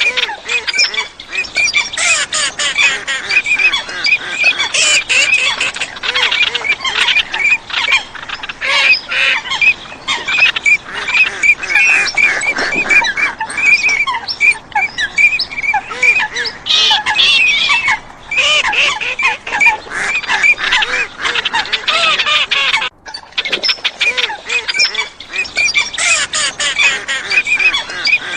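Mixed waterfowl calling over one another without a break: mallards, common teal and water hens giving a dense chorus of short, repeated calls.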